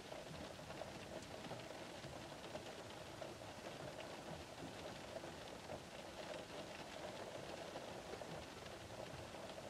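Gentle rain pattering on the roof and windows of a parked car, heard from inside the cabin: a steady, faint patter of many small drops.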